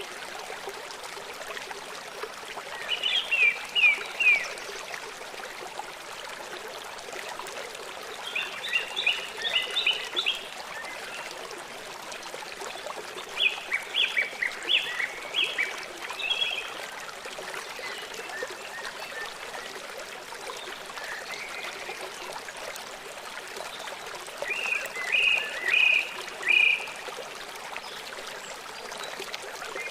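Songbird chirping in four short bursts of rapid repeated high notes, spaced several seconds apart, over a steady rush of running water.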